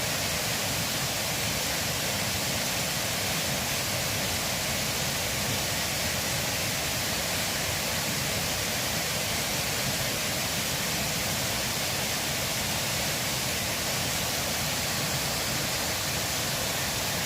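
River water rushing in a steady, unbroken hiss.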